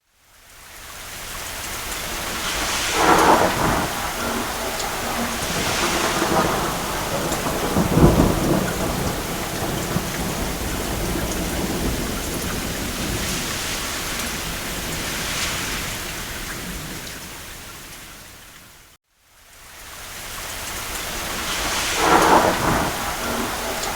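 Steady rain with several rolls of thunder swelling and fading; the strongest rumble comes about a third of the way in. The sound fades in at the start, and fades out to a moment of silence about three quarters of the way through before building back up.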